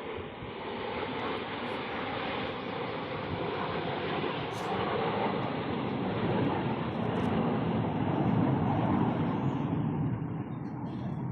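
An aircraft flying past: steady engine noise that grows louder over the first several seconds, is loudest about two-thirds of the way in, then eases off near the end.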